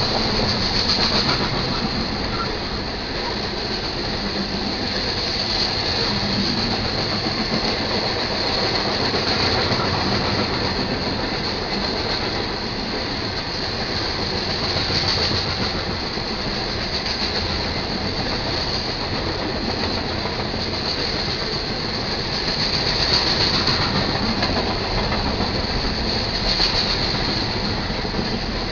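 Freight cars of a manifest train rolling past at a grade crossing, a continuous rumble of steel wheels on the rails. Over it runs a high whine that swells and fades every few seconds.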